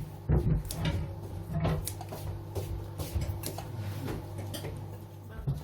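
A steady low machine hum with scattered light clicks and clinks; the hum cuts off near the end.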